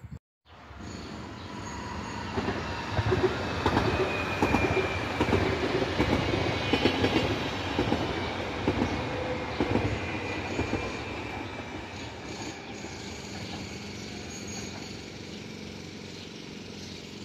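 Electric passenger train passing at close range. Its wheels click over the rail joints, with a thin high wheel squeal a few seconds in. The sound builds up after a brief silence at the start, is loudest in the middle and then eases off.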